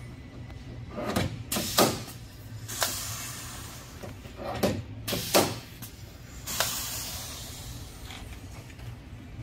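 Body-shop work sounds: a handful of sharp knocks and clunks, some with a brief falling ring, and two spells of air hiss over a steady low hum.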